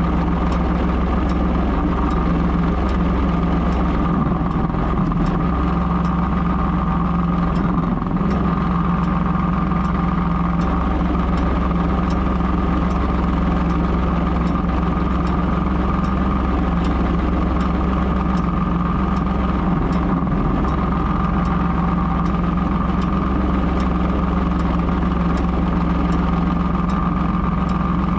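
Ford 3000 tractor's three-cylinder engine running steadily.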